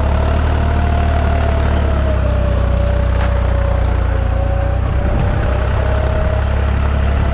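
Deutz 55F tractor engine running steadily, pulling a tine cultivator through the field, with a steady whine that wavers slightly in pitch over the low engine rumble.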